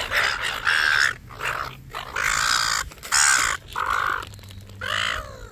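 Wild birds giving a run of about eight short, harsh calls in quick succession, the noisy squabbling of birds competing for hand-fed nuts.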